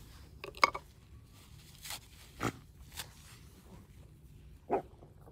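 Scattered sharp crackles and snaps from a smoky, slow-burning campfire being fed with wood, a second or so apart, over a low steady rumble.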